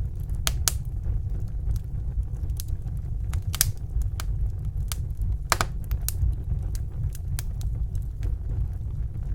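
Wood fire burning in a fireplace, crackling with irregular sharp pops over a steady low rumble. The loudest pops come about half a second in, at three and a half seconds and at five and a half seconds.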